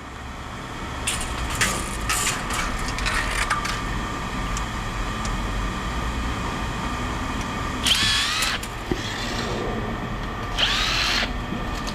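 Power tool running in short bursts over a steady low machine hum, with two brief high whirs near the end and a few clicks near the start.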